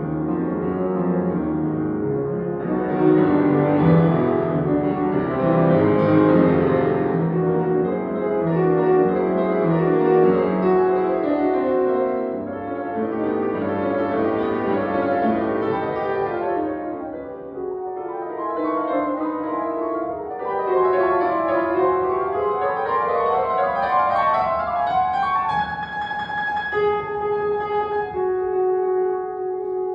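Solo piano playing classical music: fast, rippling figures, then sweeping arpeggios that fall and rise, settling on a held chord near the end.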